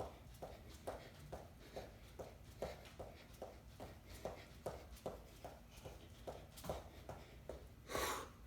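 Steady footfalls of a person running, about three a second. Near the end comes a louder breathy burst.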